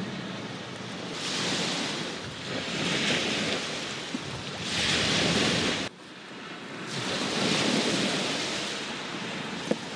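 Sea waves washing onto the shore in repeated swelling and receding surges. The sound drops away sharply about six seconds in, then builds again.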